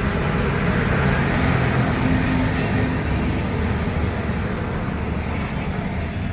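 Road traffic: a motor vehicle's engine hum with tyre noise, swelling about a second in and easing off again.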